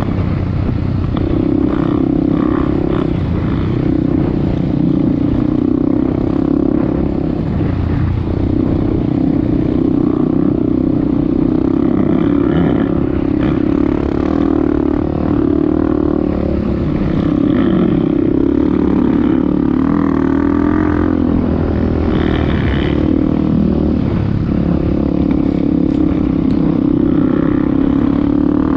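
Off-road vehicle engine running steadily under throttle, its pitch rising and falling a little as it is ridden.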